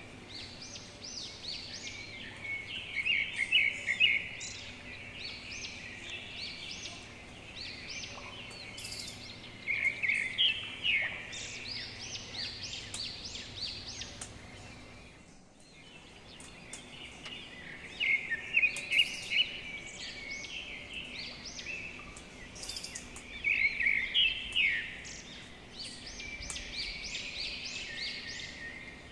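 Small birds chirping and twittering: many quick, high, repeated calls that swell into louder bursts several times, over a faint outdoor background. The sound drops out briefly about halfway through.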